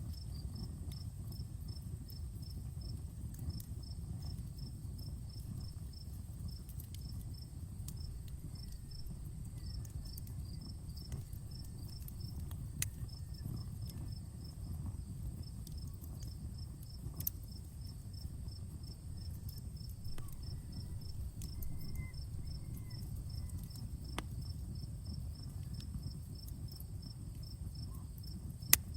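Wood campfire crackling, with scattered sharp pops and one loud pop near the end, over a steady low rumble. Crickets chirp in quick, even pulses with brief pauses.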